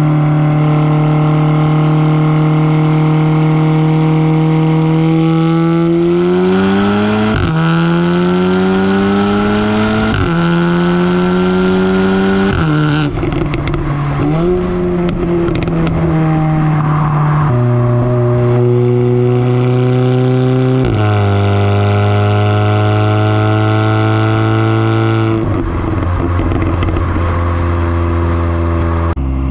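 Audi S3's turbocharged four-cylinder exhaust, fitted with a resonator delete and a CTS downpipe, while driving. It holds a steady pitch, then climbs under acceleration with quick drops at gear changes, and settles at lower steady pitches after later upshifts.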